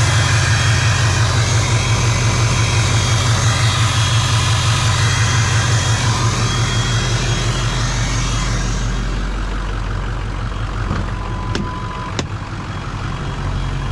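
Ford 6.0 Powerstroke V8 turbo-diesel idling with a steady low pulse, then shutting off about two-thirds of the way through. Two sharp clicks follow near the end.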